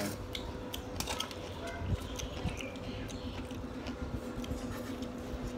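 Close-up eating sounds: a mouthful of fried noodles being chewed, with scattered small clicks of chopsticks and utensils, over a faint steady hum.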